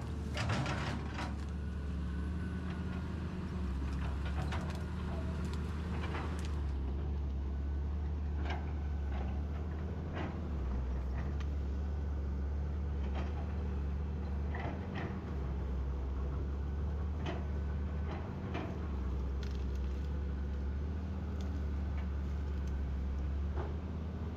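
Excavator's diesel engine running steadily, with scattered sharp knocks and clicks over the drone.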